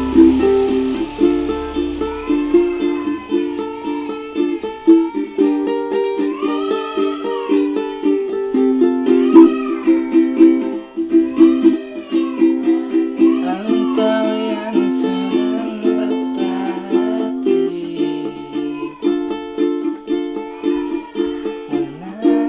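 Ukulele playing a steady, quick rhythm of plucked chords, with a melody that glides in pitch above it.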